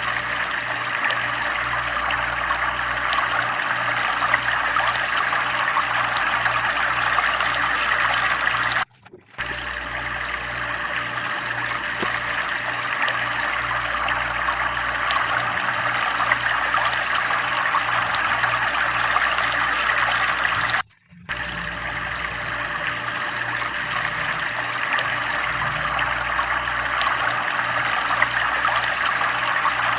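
Water flowing steadily from a tubewell, with a low throb pulsing a couple of times a second. The sound cuts out briefly twice.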